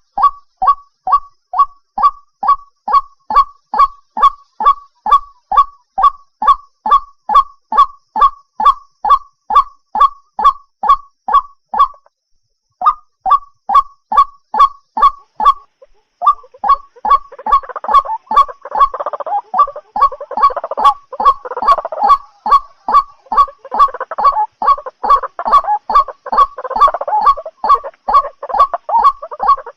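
White-breasted waterhen calling: an even, monotonous run of short calls, about two and a half a second, that breaks off briefly about twelve seconds in. From about sixteen seconds in, a second, denser layer of calls overlaps the first.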